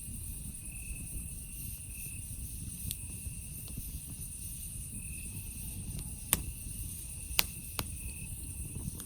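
Campfire burning with a low rumble and three sharp crackling pops in the second half, under a steady high-pitched chorus of night insects, with another insect chirping in short bursts.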